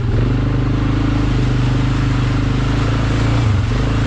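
A single-cylinder four-stroke ATV engine running under way at a steady throttle, its pitch briefly dropping right at the start and again about three and a half seconds in.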